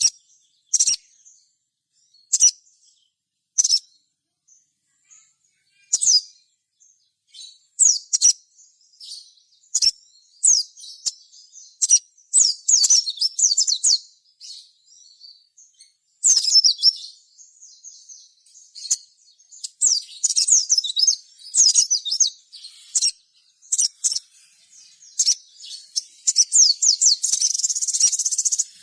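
Ruby-cheeked sunbird (sogon) calling. High, thin chirps come a second or two apart at first, then build into rapid chattering trills that run almost without a break near the end.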